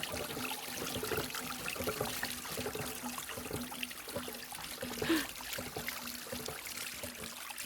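Meltwater trickling and running in a small unfrozen stream through snow.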